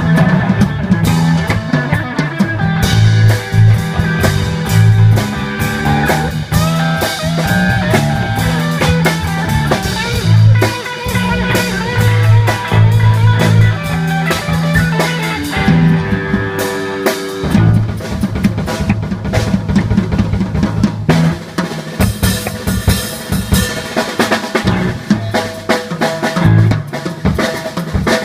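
Rock band playing an instrumental passage: drum kit with a steady beat, electric guitar and a moving bass line.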